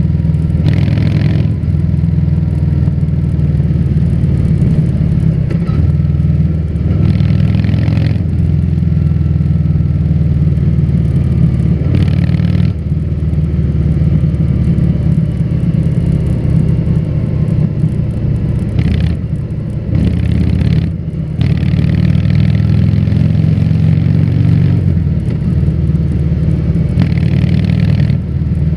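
Harley-Davidson Fat Bob 114's Milwaukee-Eight V-twin running through a Vance & Hines aftermarket exhaust while riding, a steady deep exhaust note that dips briefly a few times, with short rushes of noise over it.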